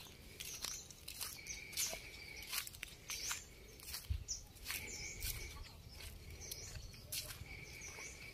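Small birds chirping in short, repeated high calls, with a low thump about four seconds in.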